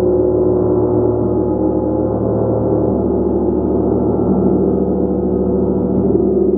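A gong played continuously, giving a loud, steady wash of many overlapping ringing tones with a throbbing pulse in the low notes.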